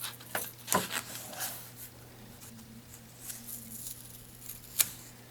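Light handling of a small plastic scale-model body: a few sharp clicks, the loudest near the end, and soft rustles over a steady low hum.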